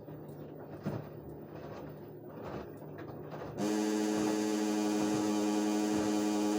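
LG washing machine running: a quieter stretch of low noise with scattered light knocks, then about three and a half seconds in a loud, steady electric hum starts suddenly and holds. This is the kind of strange noise from the bottom of the machine that the owner is asking about.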